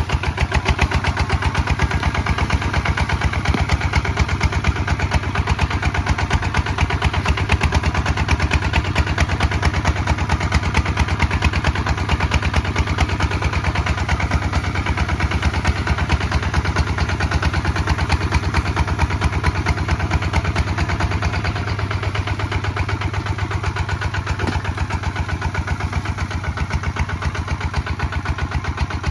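Kubota ZT 155 DI walking tractor's single-cylinder diesel engine running steadily while plowing, with a rapid, even firing beat.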